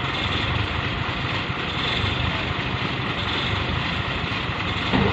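Fuso dump truck's diesel engine running steadily with a low, even rumble, and a brief knock near the end.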